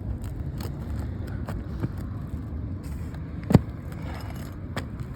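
Roofing nail being pried out from under a roof shingle: scattered small clicks and scrapes of the tool, with one sharp knock about three and a half seconds in, over a steady low rumble.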